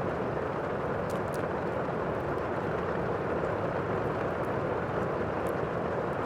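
Steady rainstorm ambience, with a few faint crackles from a wood fire scattered over it.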